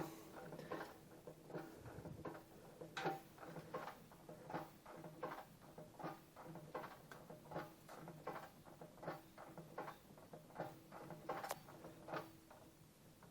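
Daewoo Lanos 1.5-litre engine running with first gear selected, under a light, uneven knocking of about two knocks a second. The owner puts the knock down to a faulty clutch disc.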